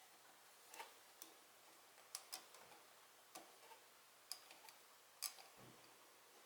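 Faint, irregular sharp clicks, about seven of them, with a dull thump near the end.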